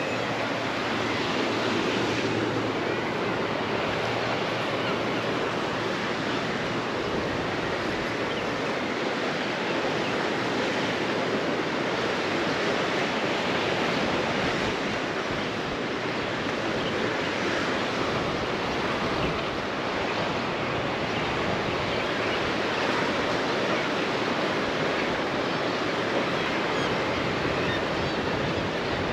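Sea surf washing against the rocks, a steady rushing noise without distinct separate breakers.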